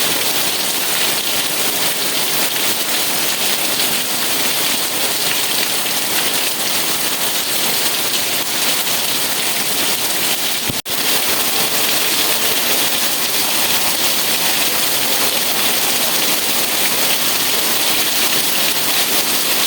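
Steady heavy rain falling, an even dense hiss, with a momentary dropout about halfway through.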